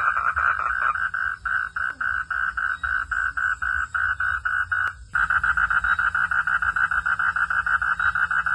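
Frogs calling in a fast, even train of pulses, with a sharp click and a momentary break about five seconds in before the calling carries on.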